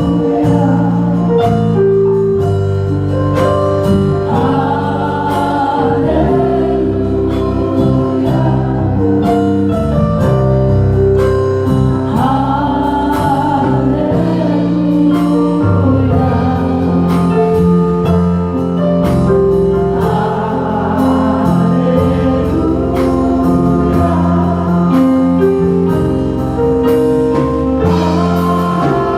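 Gospel song: a choir singing over a band, with a bass line and drums keeping a steady beat.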